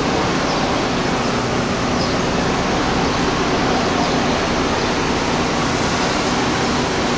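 Steady drone and hiss of a Metra bilevel commuter train close by, with a low, even hum running under it.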